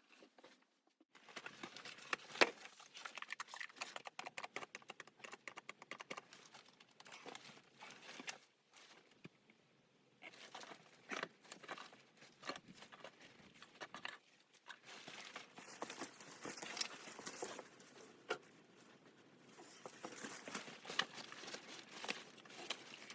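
Irregular rustling, crinkling and clicking of things being handled, with a short pause partway through.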